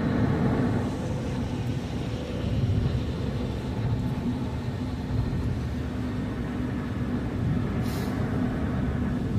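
Car driving, a steady low rumble of engine and road noise with a faint steady hum, and one brief high hiss shortly before the end.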